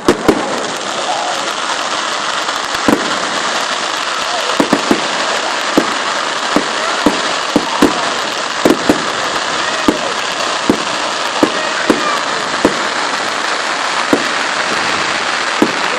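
Fireworks display: a dense steady crackling hiss with sharp bangs going off irregularly, about one every second or so.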